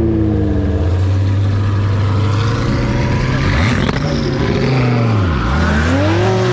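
Car engine running loudly with a steady low note, which dips about five seconds in and then climbs again as the engine revs.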